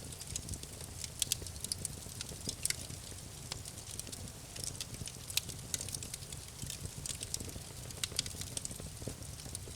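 Campfire crackling: irregular sharp snaps and pops, several a second, over a low steady rumble of the burning wood.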